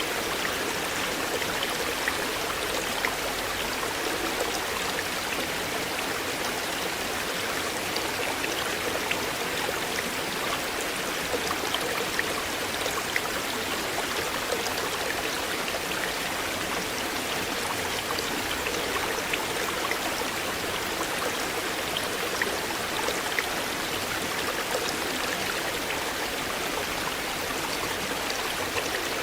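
River water flowing steadily over a shallow bed, a constant rush with many small splashes and drips scattered through it.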